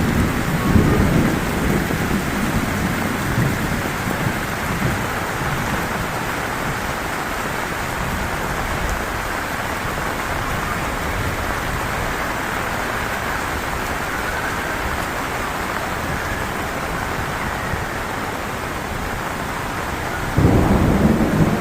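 Heavy rain falling steadily. A louder low rumble comes in the first second and again near the end.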